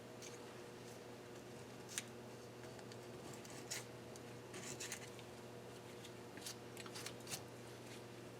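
Faint scattered clicks and light scraping from hand work on engine parts, over a steady low hum.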